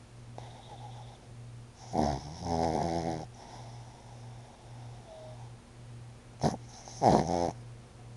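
Pug snoring: a loud rattling snore about two seconds in, lasting just over a second, then a short sharp snort and a second loud snore near the end.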